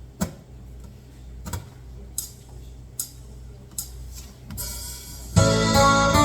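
A handful of sharp ticks, roughly one every second, then about five seconds in the intro of a slow ballad starts loudly: acoustic guitar with backing music.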